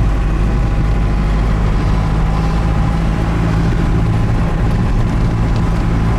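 Pickup truck driving on a dirt road, heard from inside the cab: a steady low engine drone with road and tyre noise.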